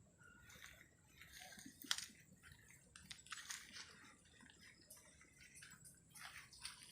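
Near silence with faint scattered rustles and clicks, one sharper click about two seconds in.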